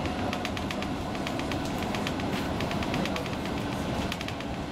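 Running noise inside a Roslagsbanan X10p narrow-gauge electric train in motion: a steady rumble of wheels on rail with rapid, even clicking.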